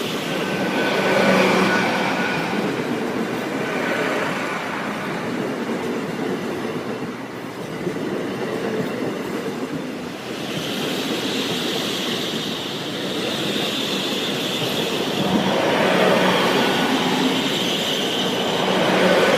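Great Western Railway Class 800 bi-mode train passing slowly over the level crossing on its underfloor diesel engines, a steady run of wheel-on-rail and engine noise. A higher-pitched sound joins about halfway through and fades several seconds later.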